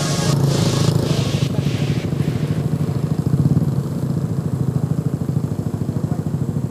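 Motor scooter engine running steadily with a fast, even beat. A high hiss fades out over the first couple of seconds.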